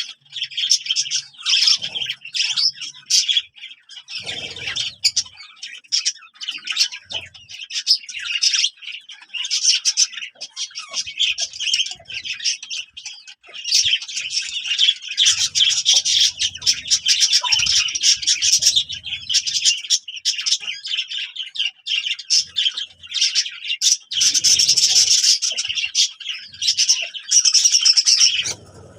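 Small birds chirping and twittering continuously, many quick calls overlapping in a dense chatter.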